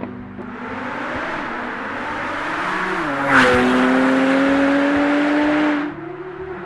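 Porsche 991.2 Turbo S twin-turbo flat-six with a Kline-Innovation Inconel exhaust accelerating at wide open throttle, its pitch climbing through the revs. About halfway there is an upshift with a sharp crack, then it climbs again before dropping away near the end.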